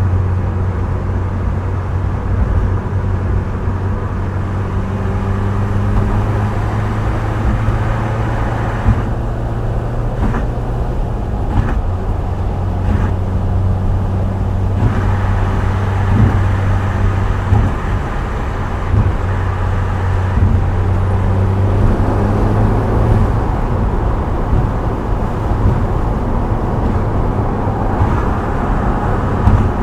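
Subaru Impreza WRX STI Spec C's turbocharged flat-four running at a steady cruise through an aftermarket A-RM muffler, with tyre and road noise; the higher part of the noise dies down for a few seconds about a third of the way in.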